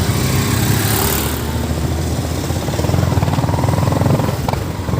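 Motorcycle engine running steadily while riding, with a brief rush of wind hiss about a second in.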